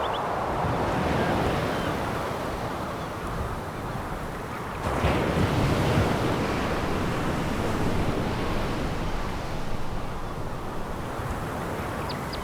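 Sea waves breaking and washing over a pebble beach, with a louder wave crashing in about five seconds in.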